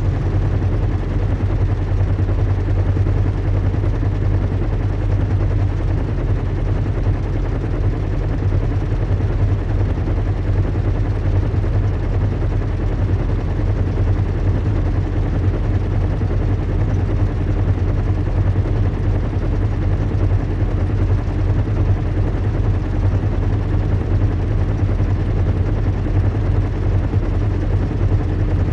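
Recreated ambience of a large airship in flight: engine and propeller drone, a steady low hum with a rapid, even flutter.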